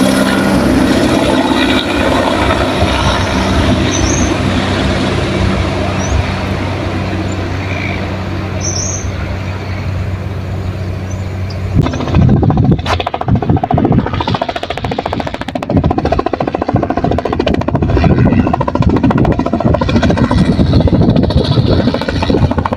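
Helicopter running with a steady low engine and rotor hum; about halfway through the sound turns abruptly into loud, gusty low rumbling with a few sharp knocks.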